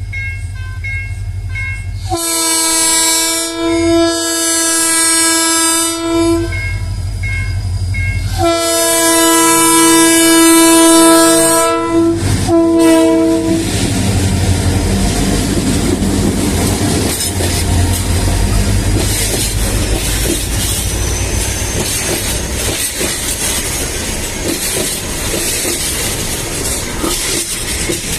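TCDD DE 33019 diesel-electric locomotive sounding its horn over the engine's low rumble: two long blasts about two seconds apart, then two short ones. After that the block freight train's wagons pass steadily, wheels clattering over the rail joints.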